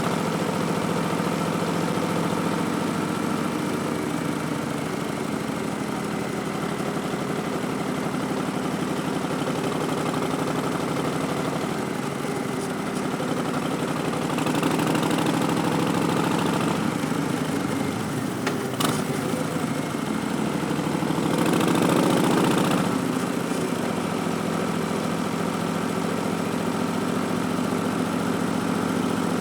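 Harley-Davidson Street Bob's Milwaukee-Eight 107 V-twin running through a Vance & Hines Twin Slash slip-on exhaust, its note rising and falling with the throttle and growing louder around 15 and 22 seconds in. A single sharp click comes about 19 seconds in.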